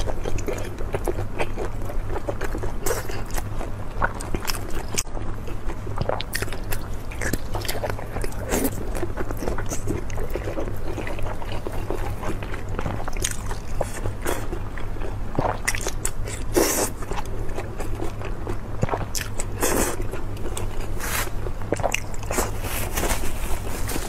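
Close-miked eating: a person biting and chewing sticky braised pork, with wet smacking clicks at irregular intervals throughout. A steady low hum runs underneath.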